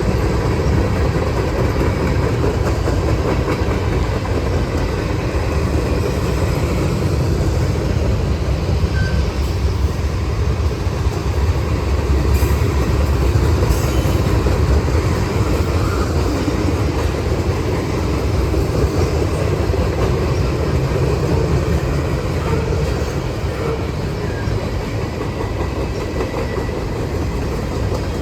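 Norfolk Southern freight train rolling past at close range: a steady, loud rumble of steel wheels on the rails.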